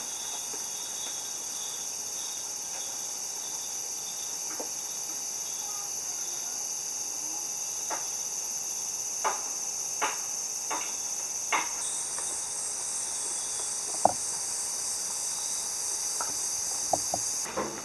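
Steady chorus of insects shrilling high, with a second, pulsing insect call joining in about two-thirds of the way through and dropping out near the end. A few light clicks are scattered through it.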